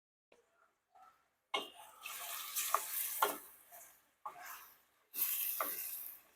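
Chicken frying in hot oil in a pan, sizzling in bursts of hiss a second or two long as it is stirred, with a few sharp knocks of the utensil against the pan.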